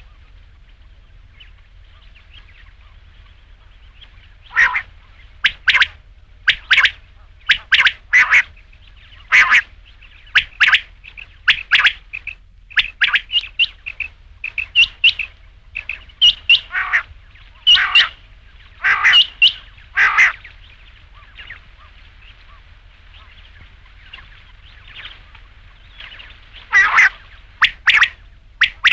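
Quail calling: sharp, clipped calls repeated in quick pairs and short runs. The calls begin about four seconds in and pause for several seconds before picking up again near the end, over a faint steady hiss.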